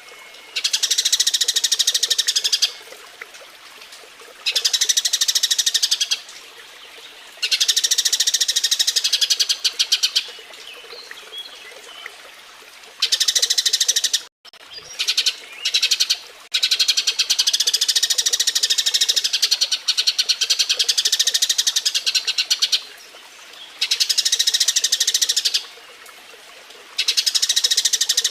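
Eurasian tree sparrows chattering in repeated bursts of rapid, high chirps, each burst lasting a second to several seconds with short pauses between: the excited twittering of sparrows mating.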